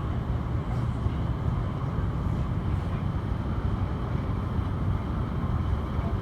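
Steady low rumble of a moving electric train.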